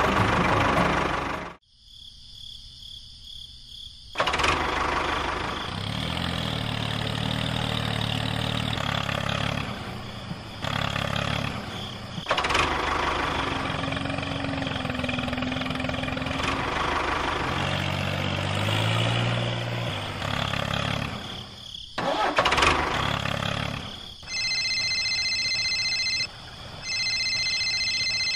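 A motor running, in several short clips cut apart by sudden drops, its low hum changing pitch from clip to clip. Near the end a set of steady high tones sounds twice, about two seconds each.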